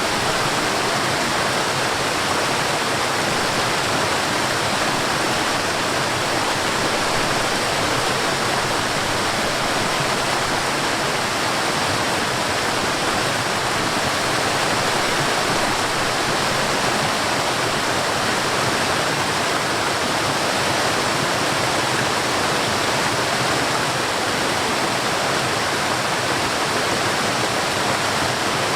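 Forest waterfall: water falling and rushing in a steady, unbroken hiss, strongest in the middle and upper range, with no separate splashes standing out.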